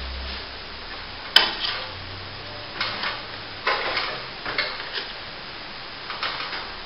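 Steel plastering trowel scraping across wet top-coat plaster in short strokes, with one sharp metallic tap about a second and a half in.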